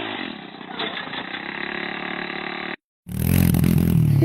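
Minibike engine running steadily at a fairly low pitch, with a small click about a second in. The sound cuts out for a moment, then the engine comes back much louder near the end.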